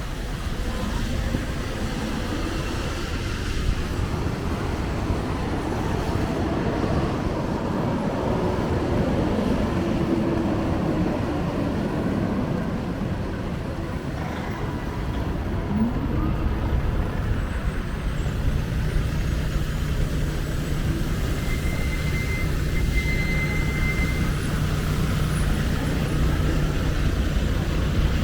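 City street traffic: vehicles passing with a steady rumble. About two-thirds of the way in, a low engine drone sets in and holds, like a large vehicle idling or moving slowly.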